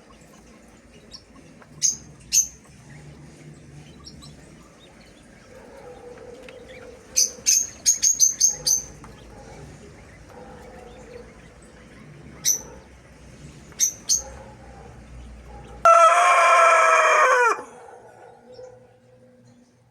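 Small birds giving short, high chirps, singly and in quick runs, then near the end a rooster crows once, a loud call of about a second and a half that drops in pitch as it ends.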